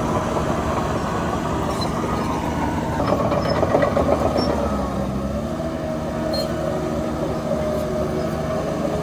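Heavy diesel earthmoving machinery running steadily under load, with a louder rattling swell about three to four seconds in and a brief dip in engine pitch just after.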